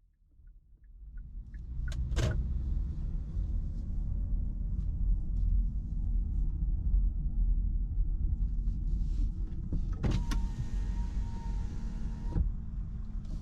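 Car engine idling, heard from inside the cabin as a steady low rumble, with a sharp click about two seconds in. About ten seconds in, a power window motor whines steadily for a little over two seconds and stops abruptly.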